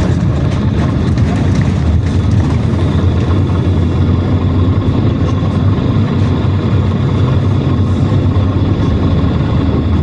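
Engine and running noise of a PAZ-422320-04 Citymax 9 city bus heard from inside the cabin while riding: a steady low drone with road noise and no change in pitch.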